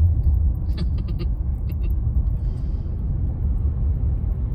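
Steady low rumble of a car driving, heard from inside the cabin, with a quick run of short clicks or rattles about a second in.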